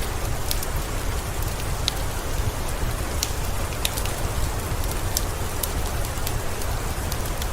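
Steady rain with a deep low rumble. Scattered through it, about one or two a second, are sharp high ticks: the crackle of a wood fire.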